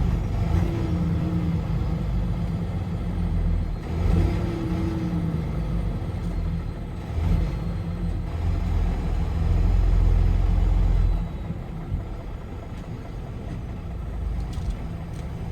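Car driving, with a steady low rumble of engine and road noise that drops somewhat in loudness about eleven seconds in.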